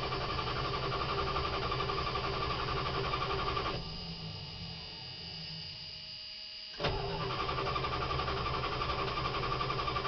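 A 1985 Dodge Ram D100's 318 V8 cranking on the starter without catching, in two attempts: it cranks for about four seconds, stops, and cranks again from about seven seconds in. It is cold after sitting a year, and is cranked with no gas pedal pressed; it needed a shot of gas to fire.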